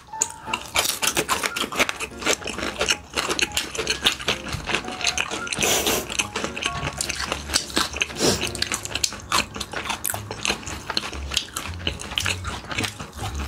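Close-miked chewing and mouth sounds of people eating, a dense, irregular run of short clicks and smacks.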